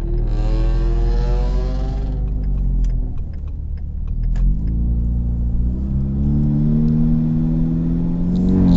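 Car engine accelerating from a crawl, heard from inside the cabin. Its note climbs for about two seconds, drops back as it shifts up a gear, then climbs again steadily for several seconds.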